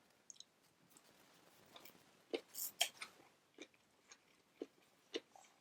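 People chewing and biting food close to the microphone: irregular soft crunches and wet mouth clicks.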